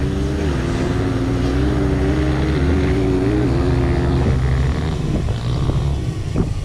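Small electric motors humming steadily with a slightly wavering pitch over a low wind rumble, stopping about four seconds in, followed by a run of short knocks and clicks.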